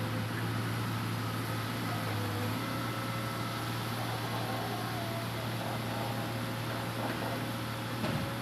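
Hitachi Zaxis 200-5G excavator's diesel engine running steadily, a low hum whose deepest part drops away a couple of seconds in. A few faint knocks near the end.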